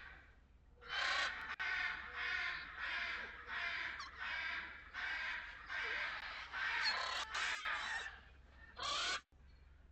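A crow cawing over and over, about a dozen harsh caws in quick succession, roughly two a second, with one last caw near the end.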